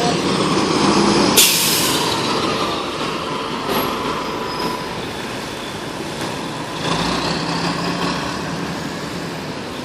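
Fire truck diesel engine running, with a sharp air-brake hiss about a second and a half in, and the engine rising in pitch and level about seven seconds in as the rig pulls away.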